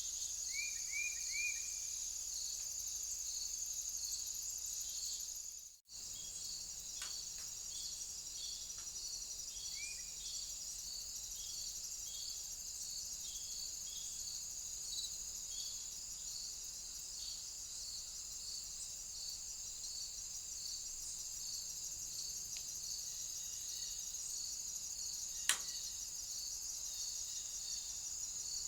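Steady high-pitched chorus of crickets trilling, with a regular slow pulse running through it. Three quick short chirps come about a second in and another about ten seconds in; the sound drops out for a moment about six seconds in, and a single sharp click comes near the end.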